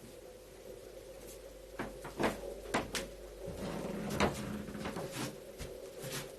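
A series of irregular sharp knocks and clicks, about eight in a few seconds, like a wooden cupboard door or furniture creaking and knocking, with a low rumble in the middle. A steady low hum runs underneath.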